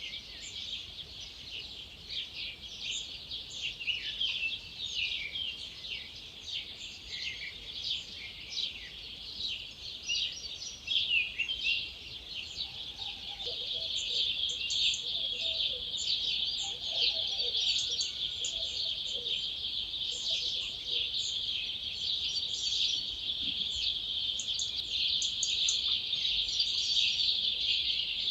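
Dawn chorus of many wild songbirds, with overlapping high chirps and trills. It thickens into a dense, continuous high chatter from about halfway. A few lower-pitched calls sound among them in the middle.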